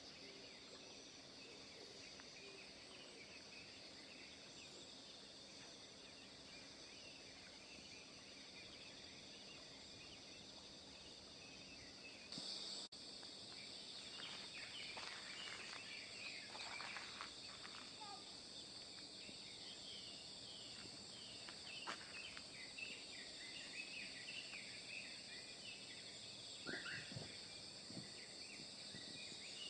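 Faint outdoor ambience of a steady, high-pitched insect chorus, which gets suddenly louder about twelve seconds in. Short bird chirps and a few soft knocks are scattered through the second half.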